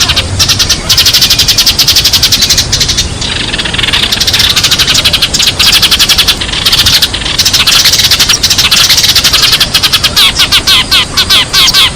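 Sparrows chirping in a loud, dense chatter of rapid, overlapping chirps, broken by a few brief pauses.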